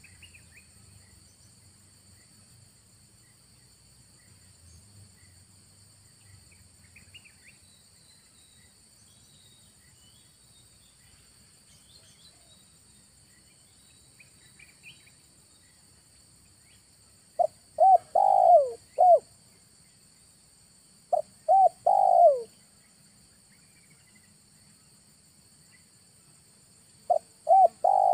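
Spotted dove (tekukur) cooing: three short phrases of a few notes each, about four to five seconds apart, in the last ten seconds.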